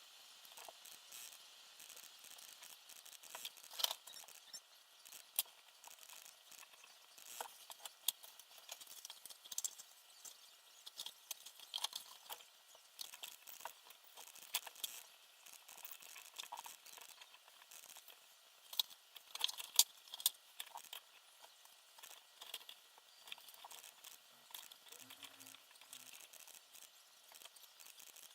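Irregular light clicks, taps and rattles of small parts and tools being handled during assembly, a few louder near the start and about two-thirds through, over a faint steady hiss.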